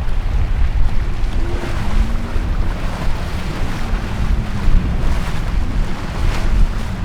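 Heavy wind rumble on the microphone over boat engines running, their faint tones gliding up and down in pitch, with waves washing.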